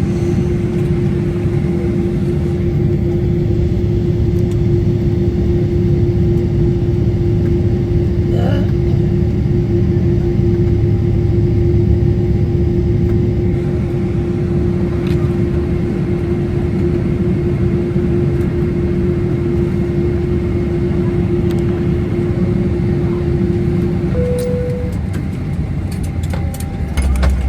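Steady low rumble of a moving vehicle heard from inside it, with a constant hum over it that stops about 24 seconds in, followed by a brief higher tone.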